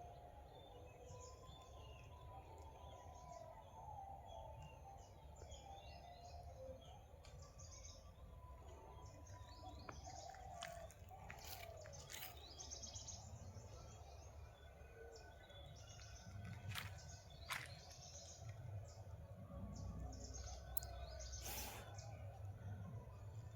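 Several forest birds chirping and calling: many short high chirps and some lower whistled notes that rise and fall, over a faint low rumble. A few sharp clicks come from about halfway through to near the end.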